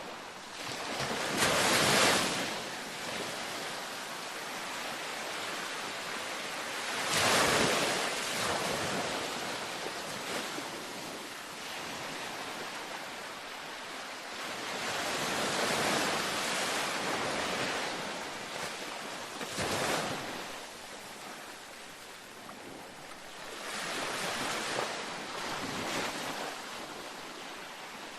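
Gentle ocean waves breaking on a beach: surf surging up and washing back every few seconds, the loudest breaks about two and seven seconds in.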